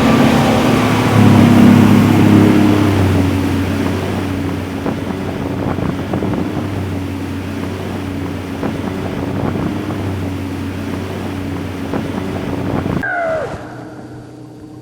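Motorboat engine running steadily under way across a lake, loudest in the first few seconds and then settling lower. Near the end it cuts off abruptly to a much quieter scene with a brief falling call.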